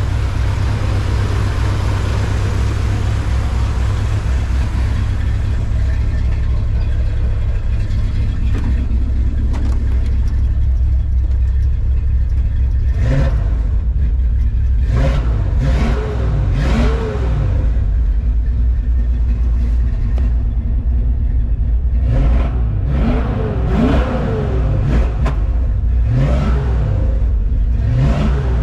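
Cold-started engine running steadily at idle, then revved in a series of short throttle blips, each rising and falling in pitch, from about halfway through.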